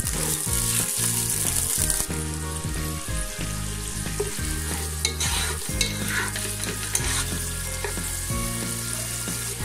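Sliced onions, bay leaf and whole spices with ginger paste sizzling in hot ghee in a non-stick pan, stirred with a spatula that scrapes the pan now and then. The sizzle is loudest in the first two seconds.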